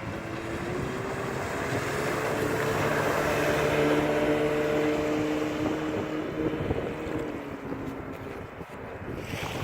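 Yamaha 30 hp outboard motor running, a steady engine tone that grows louder toward the middle and then fades out about eight seconds in, with wind buffeting the microphone.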